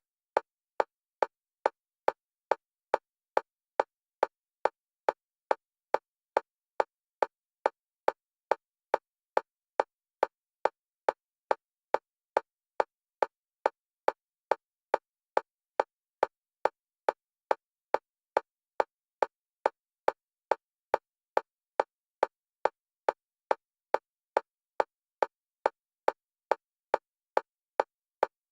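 Electronic metronome clicks at one pitch, evenly spaced at a little under two a second, alternating between the left and right stereo channels for EMDR bilateral stimulation.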